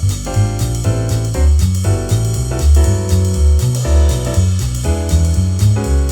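Up-tempo swing jazz backing track at 240 bpm with no lead melody: a walking bass line stepping about four notes a second, piano chords and a drum kit with ride cymbal.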